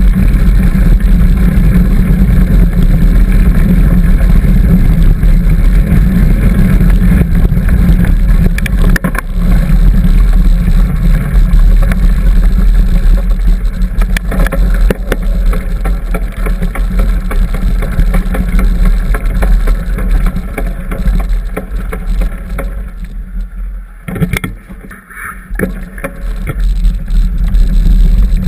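Wind buffeting a helmet or bike-mounted camera's microphone during a trail ride, with scattered clicks and rattles from the bike over bumps. The rumble dies down briefly near the end, then comes back.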